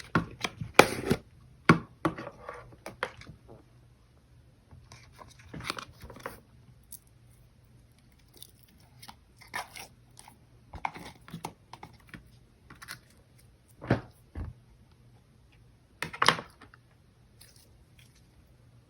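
Clear slime being squeezed and stretched by hand, giving scattered sticky pops and crackles at irregular intervals, with quiet stretches between them.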